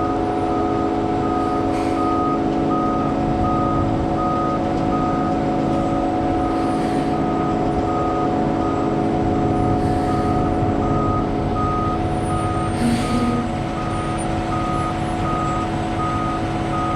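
A truck's reversing alarm beeping steadily, a little more than once a second, as a concrete mixer truck backs up to the pump truck, over the steady running of diesel truck engines.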